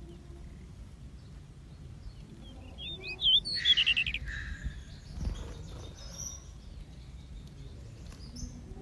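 Small aviary birds chirping: a short burst of quick rising and falling chirps about three seconds in, over a steady low background rumble, with a dull thump a little after five seconds.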